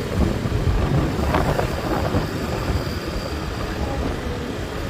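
Steady low rumbling noise, with a faint brief voice-like sound about a second in.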